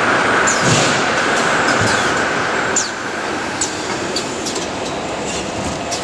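Toilet-paper roll converting machinery running: a steady mechanical whirr with a higher hum that drops away about three seconds in, and scattered short sharp clicks and squeaks.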